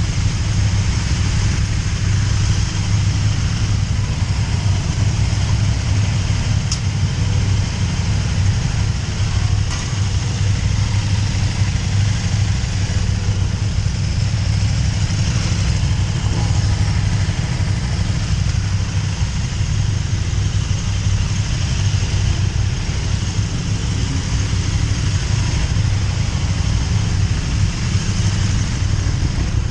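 KTM 1290 Super Duke R's 75-degree V-twin engine running steadily, with a low, even note and no revving.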